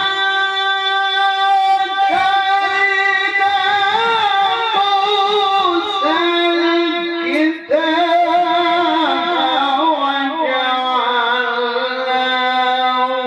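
A man reciting the Quran in melodic tilawah style, holding long ornamented melismatic phrases with a brief break for breath about seven and a half seconds in. The pitch settles lower near the end.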